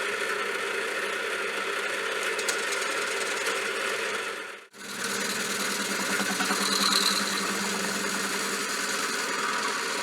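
Small lathe running with a cutting bit working on the top face of a metal part, a steady machining whirr and chatter. It breaks off for a moment about halfway and then carries on.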